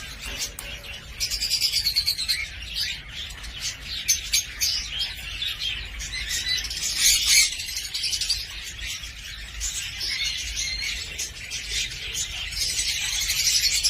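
Cockatiel chirping and warbling in a quick, unbroken stream of high chirps, short whistles and clicks, getting louder about a second in.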